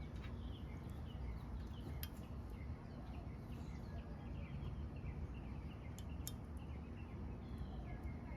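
Faint bird chirping over a steady low hum, with a few light clicks from small model parts being handled, about two and six seconds in.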